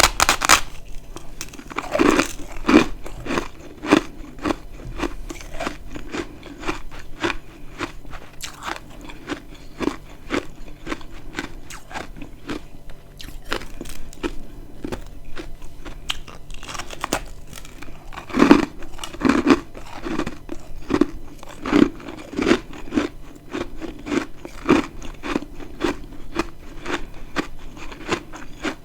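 Dry, crispy freezer frost chunks being bitten and chewed close to the microphone: a continuous run of crisp crunches, with louder bites about two seconds in and again from about eighteen to twenty-two seconds in.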